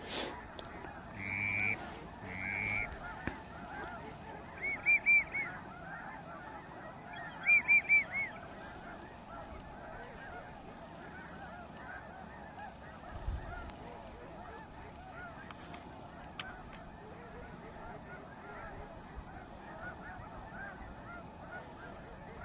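Large flock of snow geese calling as a continuous chorus of overlapping honks. Louder groups of three or four calls stand out near the start, about five seconds in and about eight seconds in.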